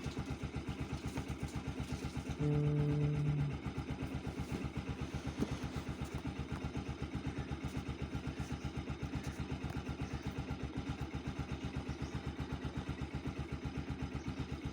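Motorcycle engine idling with an even, steady beat, left running to warm up after its first cold start of the morning. A short steady hum sounds over it about two and a half seconds in.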